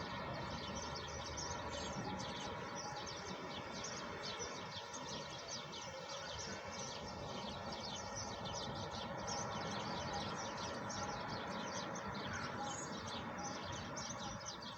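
Many small birds chirping rapidly and continuously over a steady hiss of falling rain.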